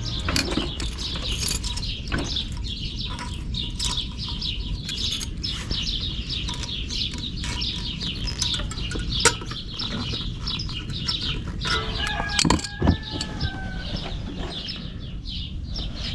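Many small birds chirping densely and continuously, with a few sharp knocks and a brief wavering call about twelve seconds in.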